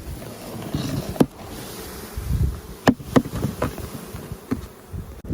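Swarm of honeybees buzzing as a package of bees is shaken into a hive, with several sharp knocks as the package box is jolted.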